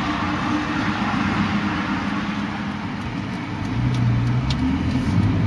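Car engine running under steady road noise; about four seconds in the engine note rises as the car accelerates.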